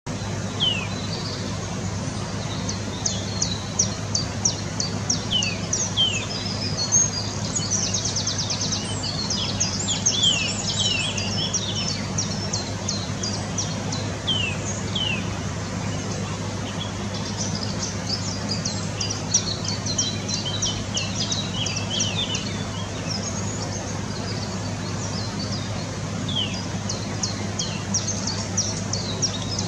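Small songbirds calling: many short, high chirps and down-slurred whistles, with a rapid trill about eight seconds in, over a steady low hum.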